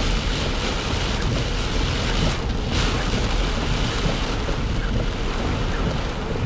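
Heavy downpour of rain drumming steadily on the car's roof and windshield, heard from inside the car.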